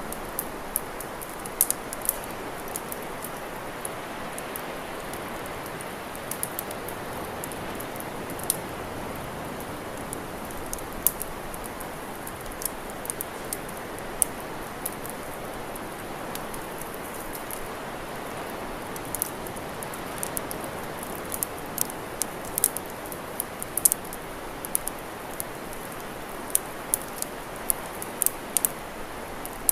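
Wood campfire crackling: irregular sharp pops and snaps, more frequent in the second half, over a steady rushing hiss.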